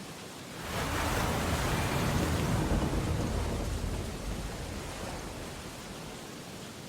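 Steady rain-storm hiss, with a loud, deep rumbling swell that rises suddenly about a second in and fades away over about four seconds.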